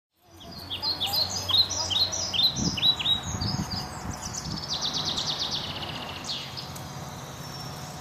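Small songbirds calling and singing outdoors: quick rising chirps repeated several times a second for the first few seconds, then a fast trill, over a low steady background hum. The sound fades in at the start.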